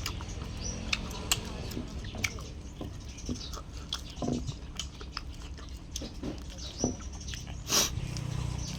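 A person chewing and biting chicken up close: scattered small wet clicks and smacks, with one louder smack near the end.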